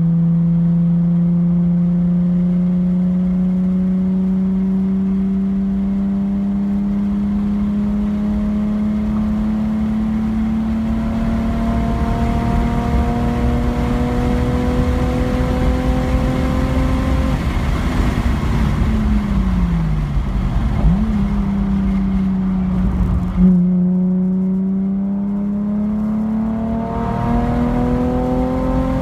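Car engine heard from inside the car at speed on a race track, its pitch rising steadily for about seventeen seconds as it pulls up to about 100 mph. The pitch then falls away as the car slows, with a quick dip and rise, a short thump about two-thirds of the way through, and a steady climb again near the end.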